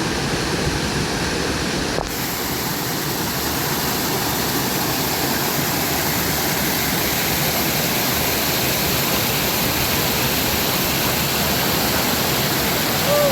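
Steady rush of running water in a small brook, with a brief dip about two seconds in.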